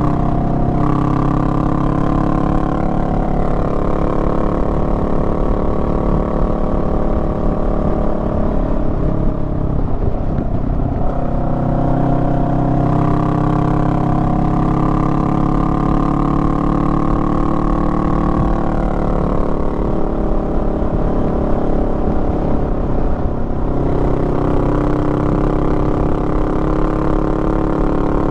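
Honda Rebel 500's 471 cc parallel-twin engine running under way. Its note breaks and drops about ten seconds in, climbs slowly under throttle, falls back around twenty seconds, then holds steady again near the end.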